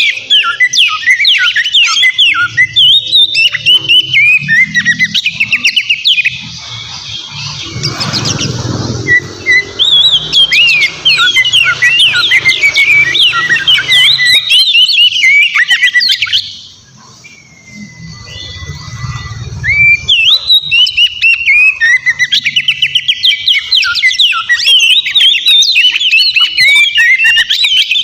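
Oriental magpie-robin (kacer) singing loudly in a fast, varied run of chirps, whistles and harsh notes, with two short pauses in the song.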